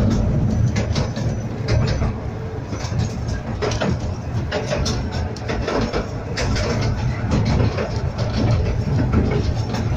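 Fairbourne Railway's 12¼-inch gauge miniature train running along, heard from on board: a steady low rumble from the carriage wheels on the track, with frequent irregular clicks and knocks from the wheels over the rails.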